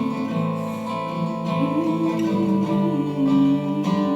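Acoustic guitar strummed and picked, playing an instrumental passage of a slow song, with a chord change about two seconds in.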